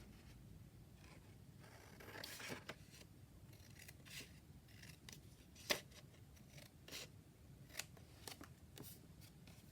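Scissors snipping paper: a few faint, scattered short snips with a little paper rustle.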